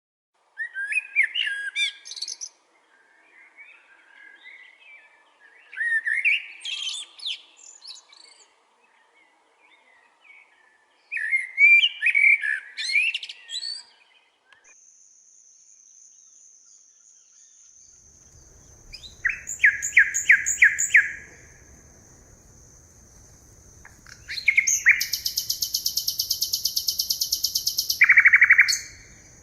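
Forest birds singing: three separate warbling song phrases in the first half. Then a steady high whine sets in, with a fast rapid trill, a loud sustained buzz and a short call near the end.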